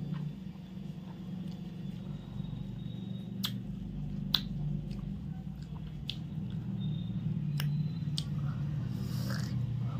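A person chewing a mouthful of chicken biryani, with about five sharp, wet mouth clicks in the middle part. A steady low hum runs underneath.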